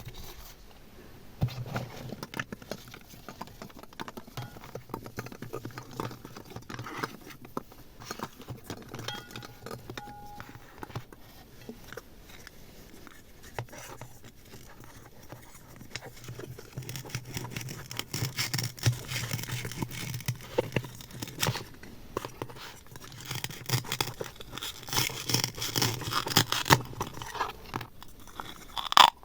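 Close-miked ASMR handling sounds of slime and small decorations: a steady stream of small clicks, crinkles and scrapes, busier and louder in the second half, ending on one sharp click.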